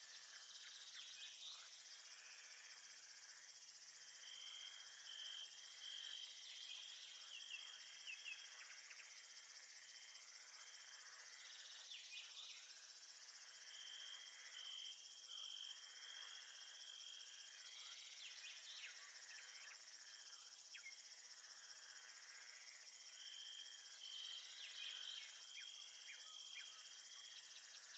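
Faint nature ambience of crickets and other insects: a steady high insect chorus, with a cricket chirping in pulsed bouts about every ten seconds. Scattered short bird chirps come through now and then.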